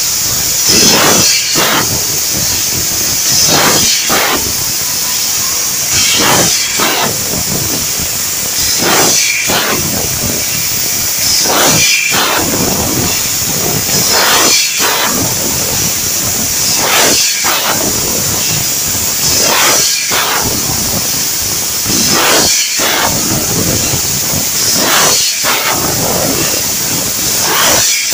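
Fiber laser tube cutter cutting a steel exhaust pipe: the assist gas gives a steady high hiss through the cutting nozzle, swelling louder about every two and a half seconds.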